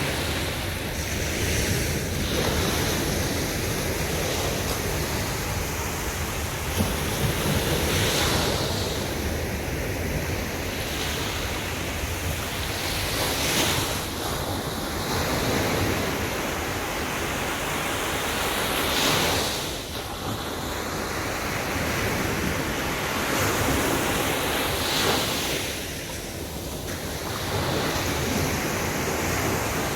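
Sea waves breaking on a beach in a continuous wash of surf, each wave surging and then falling back about every five to six seconds.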